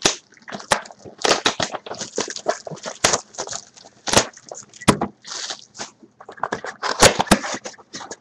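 Trading-card packs being torn open and cards handled: a dense run of sharp crackles, clicks and rustles of wrapper and card stock.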